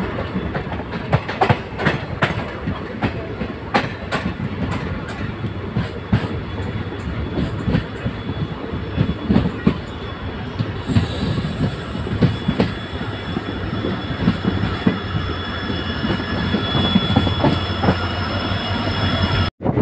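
Passenger train running through a station, heard from inside a coach: steady rumble of the wheels with irregular clicks and clatter over rail joints and points, and a thin high squeal of the wheels on the rails in the second half.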